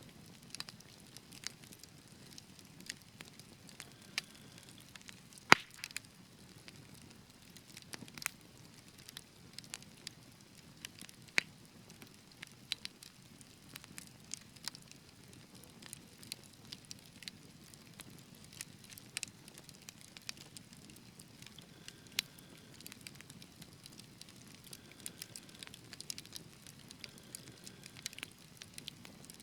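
Wood fire burning in a fireplace, crackling, with irregular sharp pops and snaps over a low steady rustle of flames. The loudest pop comes about five and a half seconds in.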